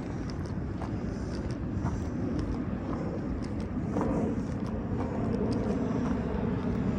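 Steady low rumble of distant road traffic, with light footsteps on the trail about once a second.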